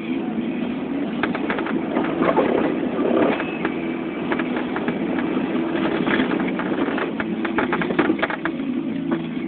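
Chevrolet 2500 pickup truck running while plowing snow, a steady drone with irregular knocks and clatter.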